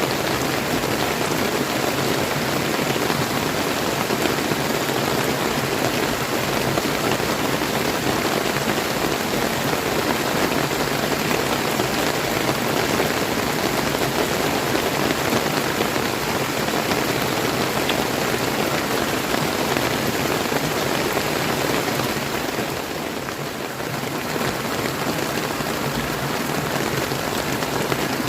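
Steady rain falling over a flowing river, a dense even hiss of drops and running water that eases slightly for a moment near the end.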